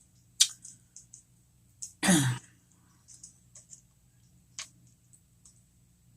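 Close-up eating sounds: a sharp mouth click, then scattered small wet clicks of chewing. About two seconds in comes a short throat sound or hum.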